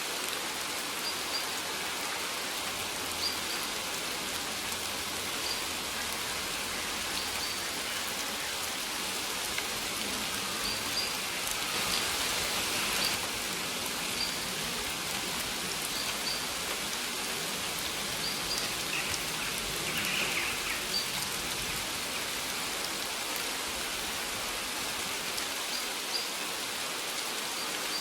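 Steady rain falling on surfaces, with short high bird chirps repeating every second or two over it. The rain swells briefly about twelve seconds in.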